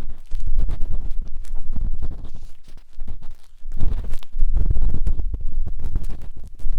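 A matchstick rubbing and scraping inside the silicone ear of a 3Dio binaural microphone: a close, muffled rumble with irregular scratchy strokes.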